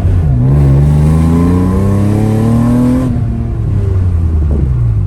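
Car engine accelerating hard through the gears: its pitch climbs, drops sharply about a third of a second in as it shifts up, then climbs steadily again until the throttle is lifted about three seconds in and the engine note falls away.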